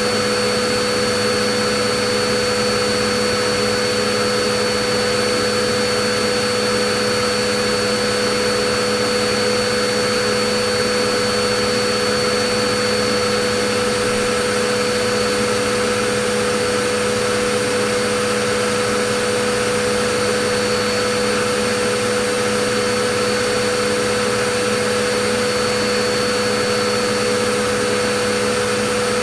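Vacuum cleaner motor running continuously, a steady rushing noise with an even whine, no change in pitch or level.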